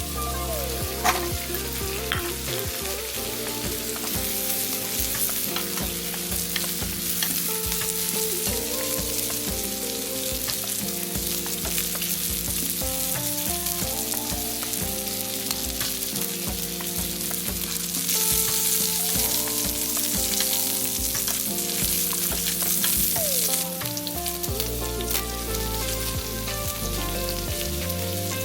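Food sizzling and frying in a hot pan, with stirring, the sizzle growing louder for stretches of several seconds, over soft background music.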